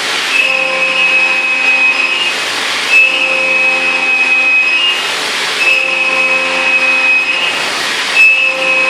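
CNC end mill trochoidal-milling 6082 aluminium: a 3-flute cutter at 8,000 rpm, 20 mm deep. It makes a steady, high-pitched whine of several tones, broken by a short rush of hiss about every two and a half seconds.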